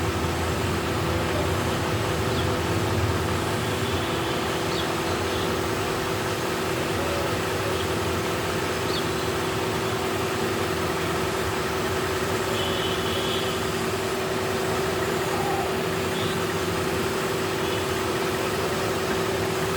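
Steady, even machine drone with a constant low hum, like an idling engine or vehicle running. A few faint, short high chirps come through it now and then.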